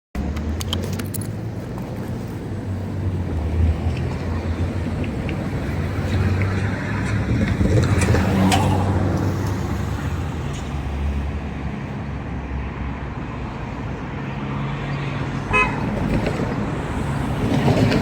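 Steady low engine rumble and road noise of a vehicle on the move, with scattered sharp clicks and a louder swell about halfway through.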